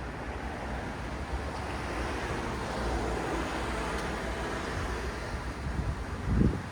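City road traffic: a steady wash of engines and tyre noise with a deep rumble, swelling a little in the middle as vehicles pass. A brief low thud stands out near the end.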